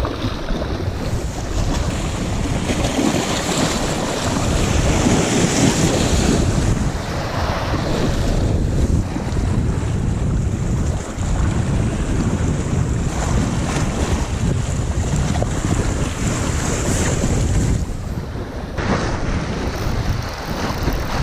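Strong gusty wind buffeting the microphone, with lake waves washing in underneath.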